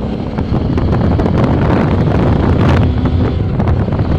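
Wind buffeting the microphone over the steady drone of a motorcycle engine while riding.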